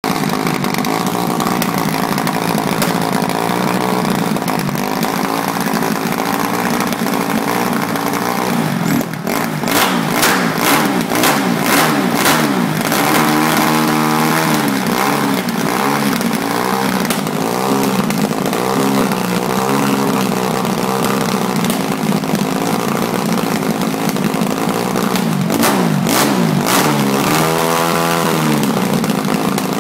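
Kawasaki KX250F motocross bike's single-cylinder four-stroke engine running steadily, then revved in quick blips about nine seconds in and again near the end, its pitch sweeping up and back down after each burst.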